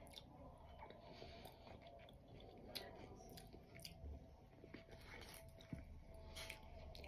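Faint chewing and small mouth clicks, with a sip of tea from a small glass near the end.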